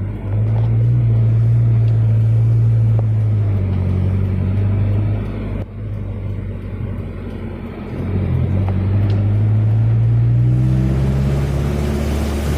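Car engine running as the car drives, its note sagging in the middle and then rising in pitch as it speeds up again near the end. A broad hiss grows in near the end.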